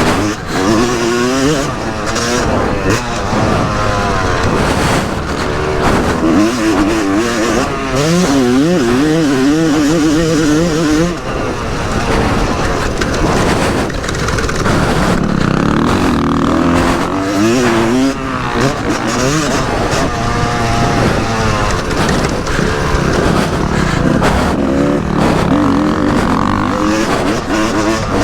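Yamaha YZ250's single-cylinder two-stroke engine being ridden hard, its pitch climbing and dropping over and over as the throttle is opened and shut through the gears.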